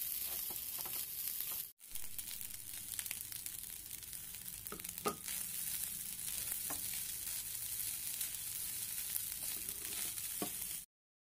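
Fried rice sizzling in a nonstick wok as it is stirred and tossed with a silicone spatula, with a few soft knocks of the spatula against the pan. The sound breaks off briefly just before two seconds in and cuts off abruptly near the end.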